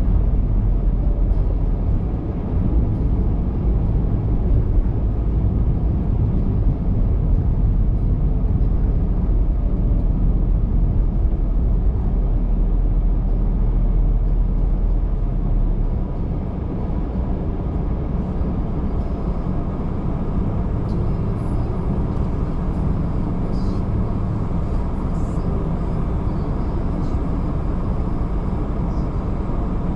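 A car driving, a steady low rumble of tyre and engine noise that drops a little about halfway through.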